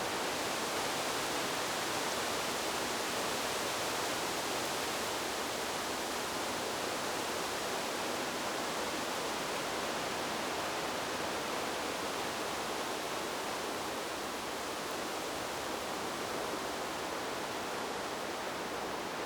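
Wind-in-the-trees white noise: an even, steady rushing hiss without gusts or separate leaf rustles.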